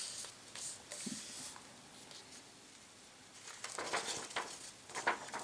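A sheet of paper being folded in half lengthwise and creased: soft rustling, then a run of sharper crackles about three and a half seconds in.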